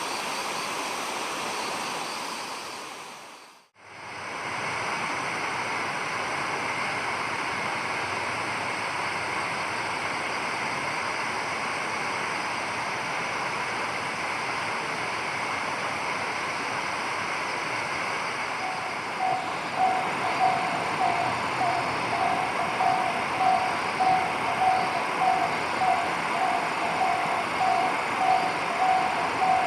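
Steady rushing outdoor noise, broken by a brief dropout about four seconds in. In the last third a repeated low tone pulses about three times every two seconds over it.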